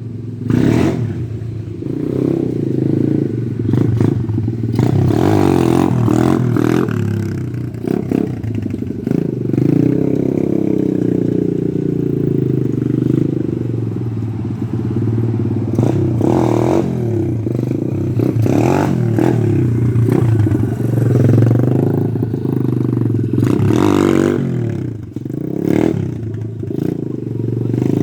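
Pit bike engine running, revved up and down repeatedly with sharp throttle surges several times.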